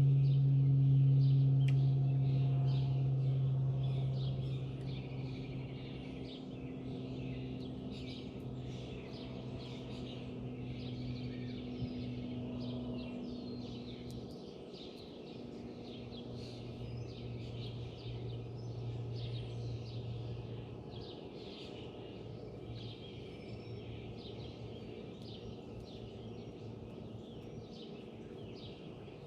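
Many small birds chirping and calling at once, short overlapping notes with no let-up. Under them a steady low hum is loudest at first and fades over the first several seconds.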